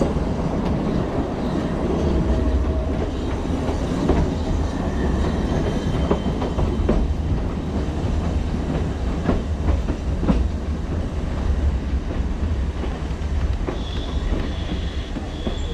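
Metre-gauge steam train carriage rolling along the track, heard from an open carriage window: a steady low rumble with scattered wheel clicks and knocks, and a faint thin squeal near the end.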